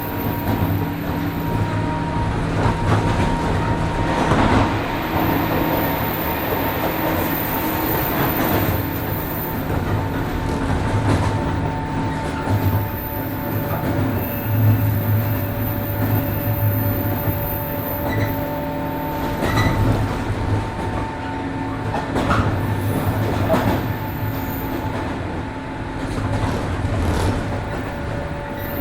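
103 series 1500-subseries electric train running at steady speed: a steady multi-tone motor and gear whine over wheel-on-rail rumble, with a few short clicks from the track.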